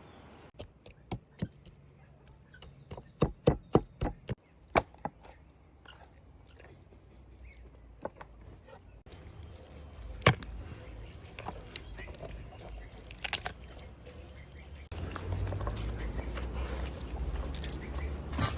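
Sharp chopping knocks: a few spaced strokes, then a quick run of about five, and a single louder one later, over a low background hiss.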